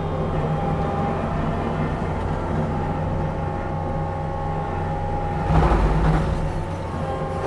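Diesel engine of a tree-mulching machine running steadily under load, then a louder bout of wood being chopped and ground about five and a half seconds in, with another starting right at the end.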